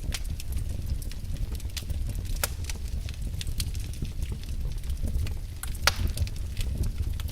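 Wood fire burning in a fireplace, crackling with scattered sharp pops over a low, steady rumble; the loudest pop comes about six seconds in.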